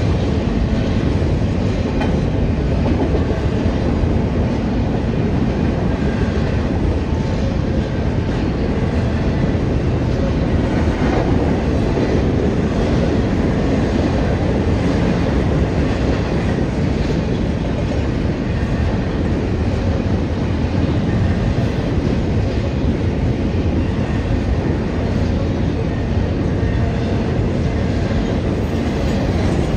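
Double-stack intermodal freight train's container well cars rolling past, their steel wheels on the rails making a steady low rumble with scattered clacks.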